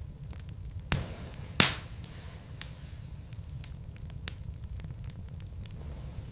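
Burning logs in a fireplace crackling: irregular sharp pops and snaps over a low steady rumble. The two loudest pops come about a second in and about a second and a half in.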